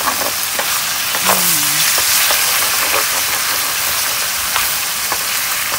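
Chicken pieces sizzling steadily in hot oil in a non-stick frying pan, stirred continually with a wooden spatula that scrapes and taps against the pan.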